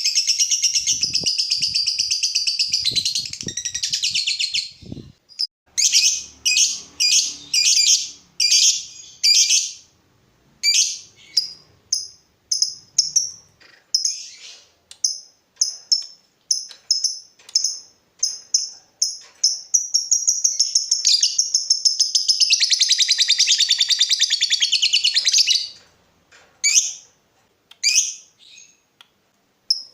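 Lovebird singing: long, fast chattering trills broken by runs of short, sharp chirps about two a second, then another sustained rapid trill.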